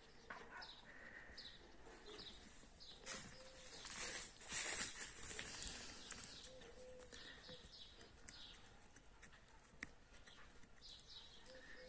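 Small birds chirping faintly, short calls repeating throughout. A few brief rustling sounds about three to five seconds in.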